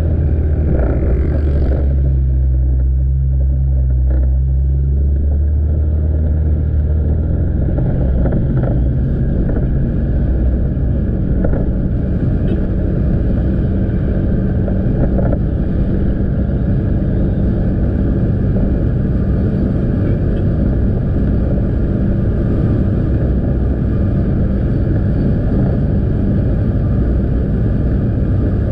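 Motorcycle engine running while riding along, with wind and road noise. A steady low engine note stands out for about the first seven seconds, then blends into a rougher, even noise.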